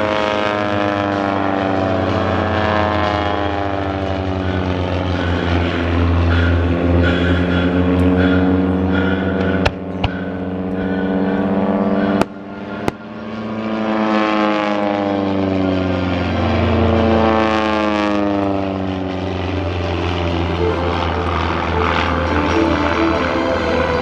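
Propeller-driven Van's RV-8 aerobatic planes droning as they fly past, the engine sound sweeping as they pass, twice. A few sharp clicks, with brief drops in loudness, come near the middle.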